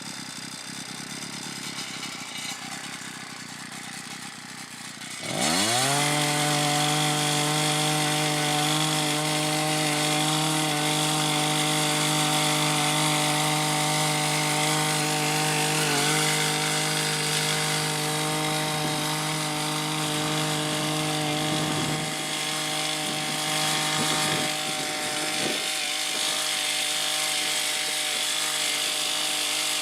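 Small gas engine of a Harbor Freight Predator cultivator revving up sharply about five seconds in. It then runs steadily at high speed, working the tines to mix freshly spread seed into the soil.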